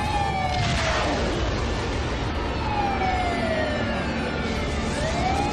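Siren wailing, its pitch sliding slowly down and back up over a few seconds, over a steady low rumble.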